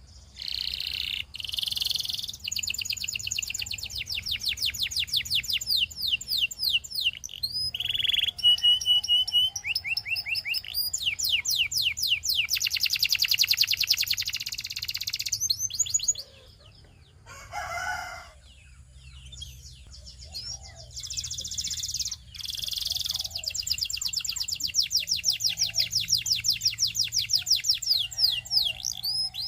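Belgian singing canary singing in long, fast rolling trills of rapidly repeated high notes. The song breaks off twice for a second or two past the middle, with a short harsher, lower note between the breaks.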